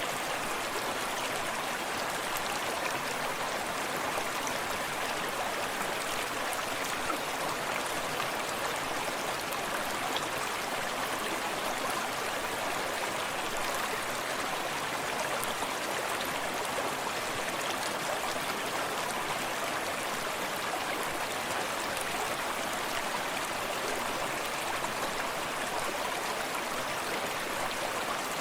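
Forest stream running steadily over stones, a constant rushing of water with small splashes and gurgles, and the wash of a small waterfall further off.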